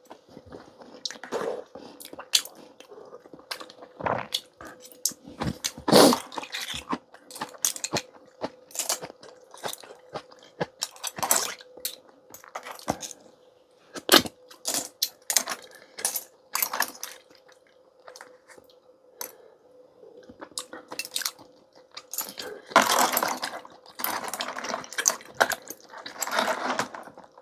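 Clam shells clicking and clinking against a bowl and dish as the clams are picked out and the empty shells set down, in many sharp, irregular knocks. Close eating sounds run for a few seconds near the end.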